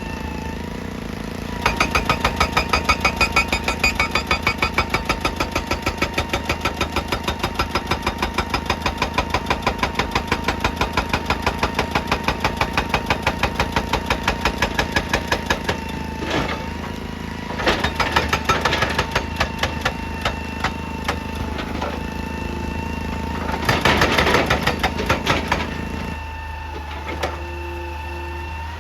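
Excavator-mounted hydraulic breaker hammering rock in a long run of rapid, rhythmic blows over the excavator's steady engine. Later it hammers in shorter bursts with pauses, then stops, leaving the engine running.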